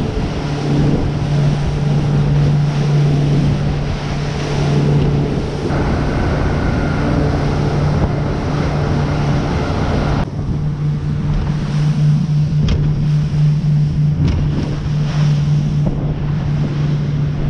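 Boat engine running steadily under way, with wind buffeting the microphone and water rushing past the hull. The wind and water noise drops abruptly about ten seconds in while the engine hum carries on.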